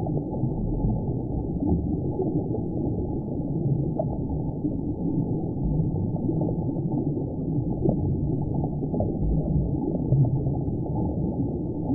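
Muffled underwater ambience: a steady, deep rumbling wash with nothing in the higher range and a few faint ticks.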